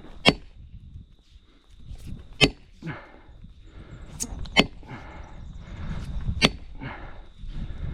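Felling wedge being driven into the back cut of a tree with hard blows, about five strikes spaced roughly two seconds apart (two close together near the middle), to lift and tip the tree.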